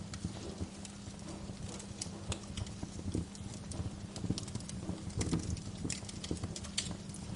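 Bonfire crackling: irregular sharp pops and snaps of burning logs over a low rumble, with a faint steady hum underneath.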